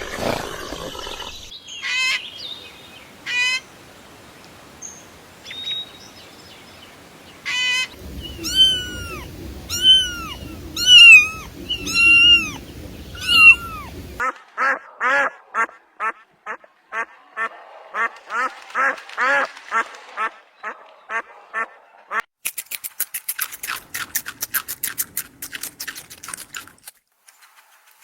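Ducks quacking: several separate bursts of repeated calls, one loud series of drawn-out calls, then a fast run of short quacks. Near the end comes a rapid, high-pitched rattling trill.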